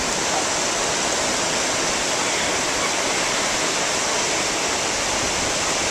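Steady rushing noise of ocean surf washing on a beach, with no breaks or separate events.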